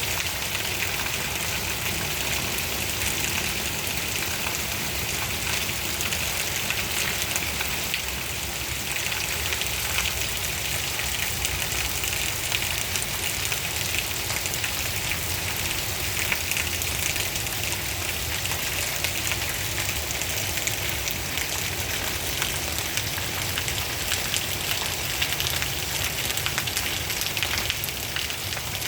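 Steady rain falling without let-up: a dense, even hiss of many close drops.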